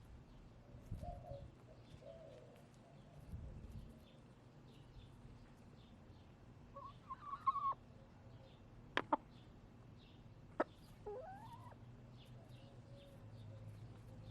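Backyard hens vocalizing: soft low clucks early on, then two drawn-out wavering calls that rise at the end, about seven and eleven seconds in. Three sharp clicks fall between the calls, and small wild birds chirp faintly throughout.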